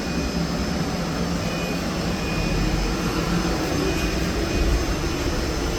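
Trolleybus in motion, heard from inside: steady low rumble of tyres and road with a faint steady whine from the electric drive.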